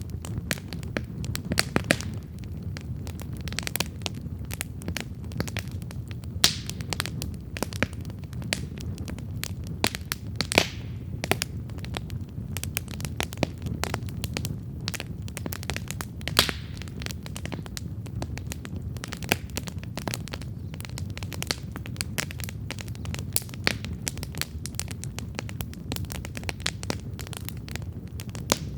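Wood campfire burning, with frequent irregular crackles and sharp pops over a steady low rumble of the flames.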